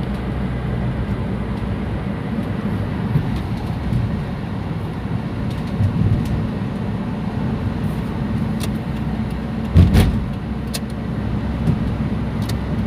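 Car driving, heard from inside the cabin: a steady low rumble of engine and road noise, with a few light ticks and a brief thump about ten seconds in.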